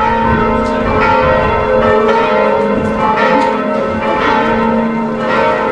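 Church bells ringing, with many bells struck in overlapping succession so the tones sound continuously.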